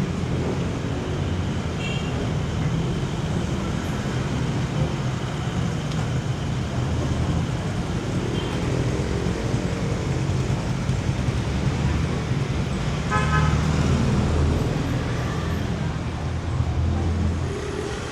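City street traffic: vehicle engines running steadily, with short horn toots about two seconds in and again, louder, around thirteen seconds.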